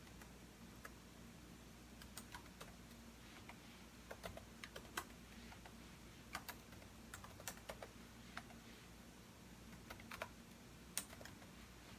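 Computer keyboard typing in irregular bursts of keystrokes, sparse at first and quicker in the middle, with one sharper keystroke near the end, over a faint steady low hum.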